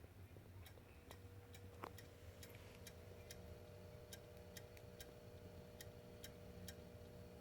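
Xbox One console making a faint series of sharp clicks, about two a second, over a faint steady hum. It is the start-up fault in which the console clicks and will not load past the green screen.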